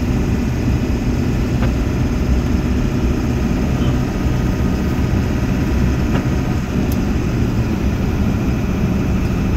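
Steady drone of a 2000 Ford F350's 7.3 L turbo-diesel V8 and road noise, heard from inside the cab while driving.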